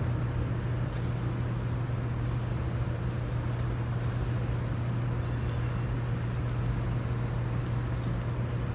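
Background room noise with no music or voices: a steady low hum and a faint hiss, with a couple of faint ticks.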